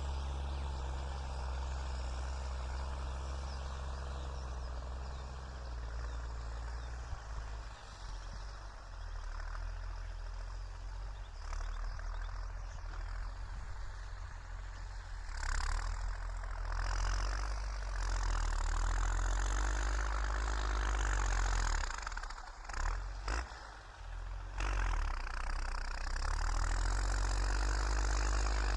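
New Holland TS6.125 tractor's diesel engine running with a steady low drone. The sound drops away briefly for a couple of moments a little past the middle, then picks back up.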